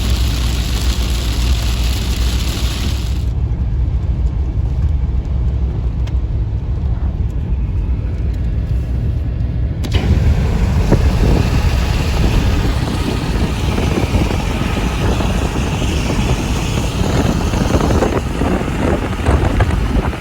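Car driving, a steady low road and engine rumble with a haze of road noise. The sound changes abruptly twice, about three seconds in and about ten seconds in.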